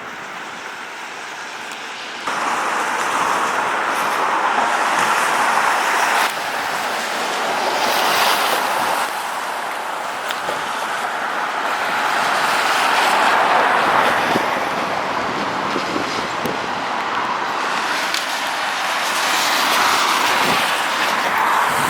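Road traffic passing on a wet road, with tyres hissing in swells that build and fade every few seconds and a sudden rise about two seconds in.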